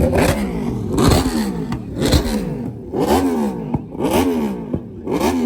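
A performance car engine revved in repeated blips, about one a second, six times. Each rev climbs quickly and falls back, and each opens with a sharp crack.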